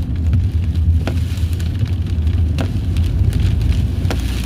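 Steady low rumble of a car in strong wind and rain, with scattered sharp taps of raindrops.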